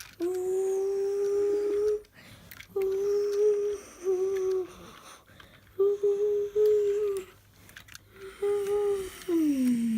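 A voice holding five long, steady notes with short gaps between them. The last note slides down in pitch near the end.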